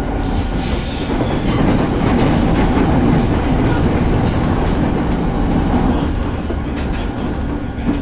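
Electric commuter train running at speed, heard from inside the carriage: a steady rumble of wheels on rails with a few sharp clicks.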